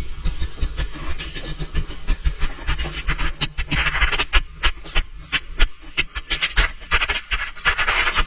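Irregular scraping, clicking and knocking with patches of hiss and a low rumble, as a camera hanging on a string rubs and bumps against the inside of a pipe.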